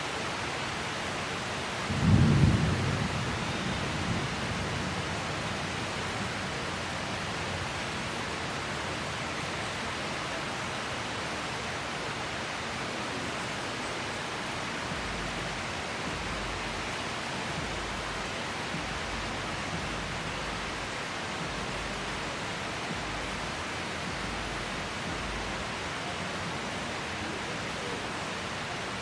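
Steady tropical downpour hissing, with one sharp thunderclap about two seconds in that rumbles away over the next couple of seconds.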